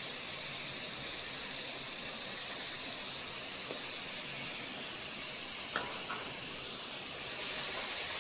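Stir-fry of beef, green peppers and bamboo shoots sizzling steadily in a hot frying pan as a salt sauce is poured in. Two light clicks about six seconds in.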